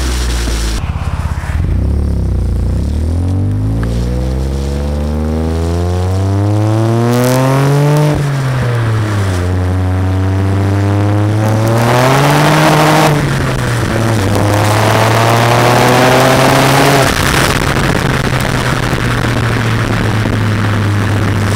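BMW E90 335i's turbocharged straight-six, heard through an Autobahn Exotics exhaust with catless downpipes, accelerating hard through the gears. The engine note climbs, drops at two upshifts, climbs a third time, then settles to a steady cruise, with wind noise on the microphone.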